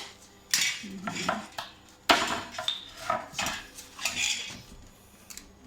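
Gypsum drywall being broken through by hand: irregular cracking and crunching, with a sharp crack about two seconds in.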